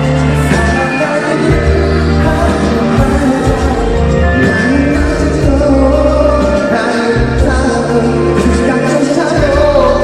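Live concert recording of a pop song: a male lead vocal sung over a full band with sustained bass notes.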